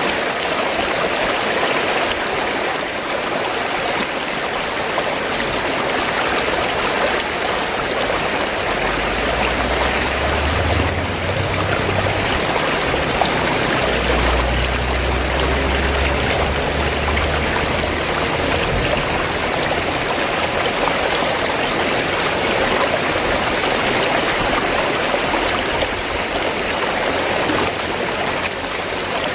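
Fast-flowing stream water rushing and gurgling steadily, with a low rumble underneath from about nine to eighteen seconds in.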